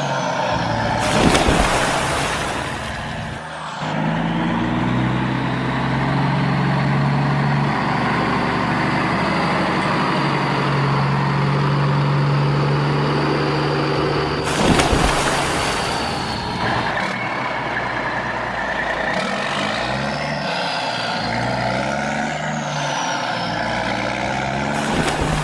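Heavy truck diesel engine running and revving up and down. Three loud bursts of air hiss break in, about a second in, around the middle and at the very end.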